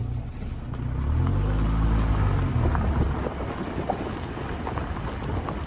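Airplane engine drone over a low rumble, its pitch rising and then falling between about one and three seconds in.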